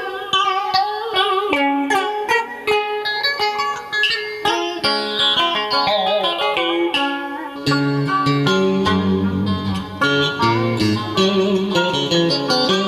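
Instrumental music: a plucked guitar melody with wavering, bent notes, in the style of Vietnamese cải lương accompaniment. Deeper bass notes join a little past halfway.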